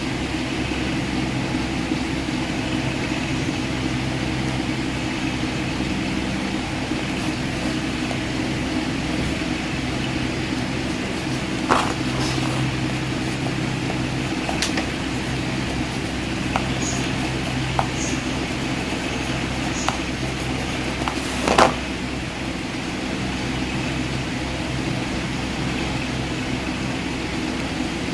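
Steady mechanical hum with a few low, even tones, broken by a few short clicks or taps, the loudest a little past two-thirds of the way through.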